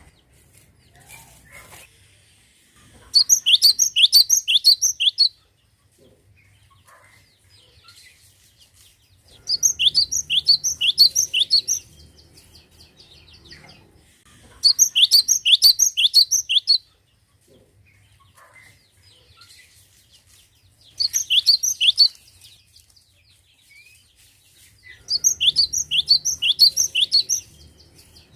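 Cinereous tit (glatik batu) singing in full voice: five bouts of quick, high, downward-slurred notes repeated in a rapid series, each bout lasting about two seconds, with pauses of a few seconds between.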